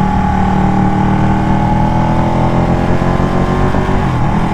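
Ducati 1199 Panigale's L-twin engine running at a steady highway cruise, its pitch easing down slightly, over a low wind rumble.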